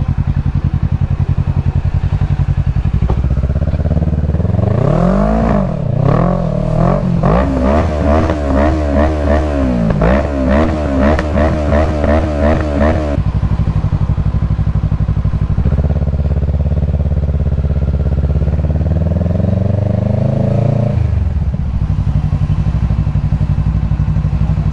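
Motorcycle engine idling, with a run of quick, repeated throttle revs from about four seconds in that stops suddenly. Later comes one slower rev that climbs for several seconds and then drops back to idle.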